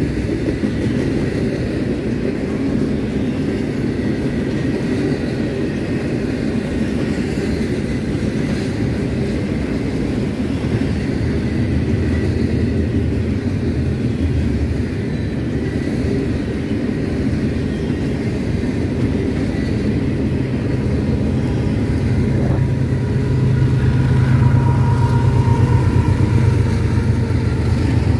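Freight train passing: a loud, steady rumble of railcars rolling on the rails, with a deeper drone growing stronger near the end.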